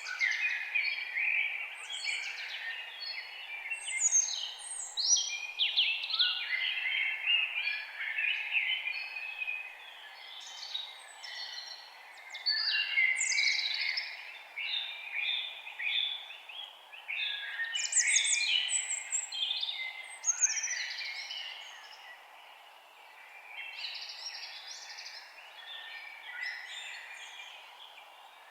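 Several forest birds singing at once: rapid chirps, trills and short whistled phrases overlapping, over a faint steady background hum. The chorus thins out and grows quieter in the last third.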